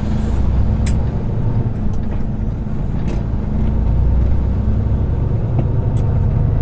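Semi truck's diesel engine running steadily, heard from inside the cab as it drives, with a few sharp clicks or rattles near one, three and six seconds in.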